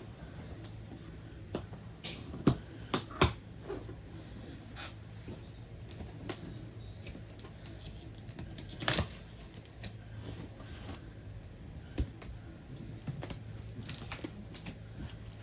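Cardboard box and packing material being opened and handled by hand: scattered taps, knocks and rustles, with a longer scraping rip about nine seconds in.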